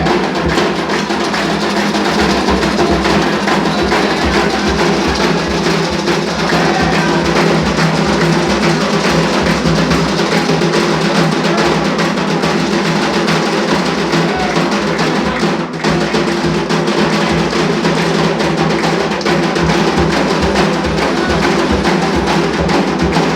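Candomblé ritual drumming on atabaque hand drums, a dense, continuous beat.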